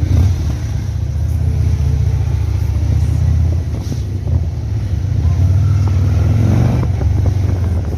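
Motorcycle engines running with a deep low rumble that swells twice, louder for a couple of seconds each time.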